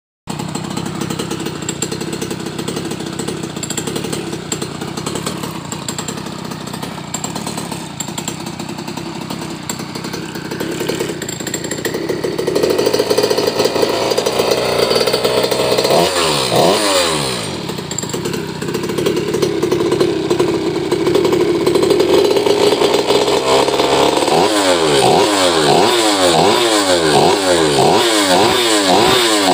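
Small two-stroke Goped engine (a 49cc earth-auger engine bored out to 63cc, with a Walbro carburettor) running through a racing exhaust. It runs steadily for the first dozen seconds, then is revved harder. The revs fall away in a sweep about sixteen seconds in. In the last few seconds the throttle is blipped over and over, so the revs rise and fall quickly.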